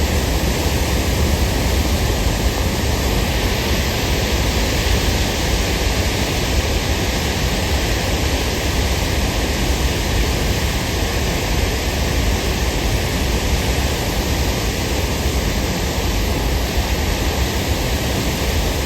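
Jonha waterfall in full flow after heavy rain: a loud, steady rush of falling water with a deep rumble underneath.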